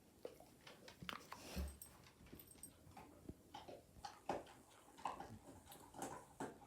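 Pit bull chewing on a wooden stick: faint, irregular crunches and clicks of teeth on wood.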